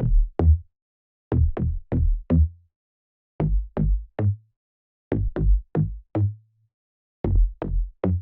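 Serum synth bass preset playing a dry, hard, deep tropical-house bass line: short plucked notes in phrases of about four, roughly every two seconds, with silence between. Each note starts bright and quickly dulls, and the last note of some phrases is held a little longer.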